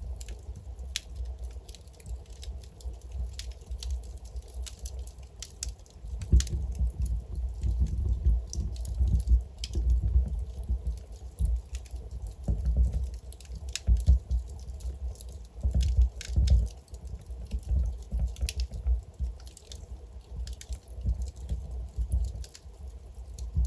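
Logs burning in a fireplace, crackling and popping at irregular moments over a low rumble that swells and falls.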